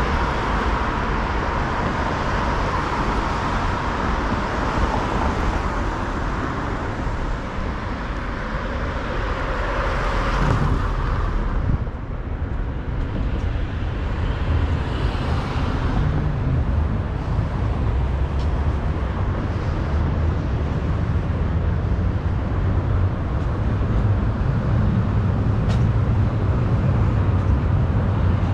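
Road traffic on a city street: a steady low rumble of passing vehicles. The hiss of a passing vehicle fades away about twelve seconds in.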